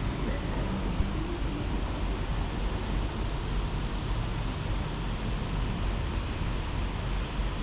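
Steady wind noise buffeting the microphone: a low rumble under an even hiss.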